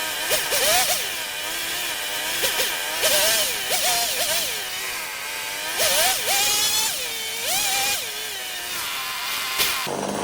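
The two-stroke engine of an old Craftsman 2.3 cubic-inch chainsaw running and being revved up and down over and over, its pitch rising and falling every second or so. It has just been restarted after a cleanup and still needs its carburettor adjusted. Near the end the sound changes abruptly to a steadier, lower engine note.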